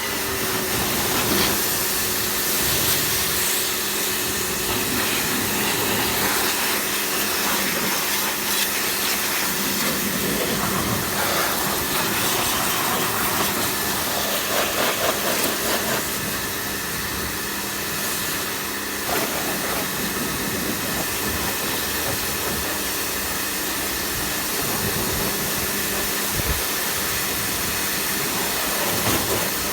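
Pressure washer spraying a steady jet of water, rinsing TFR degreaser off a car's engine bay, its hiss swelling and easing as the jet moves over different parts, with a faint steady motor hum underneath.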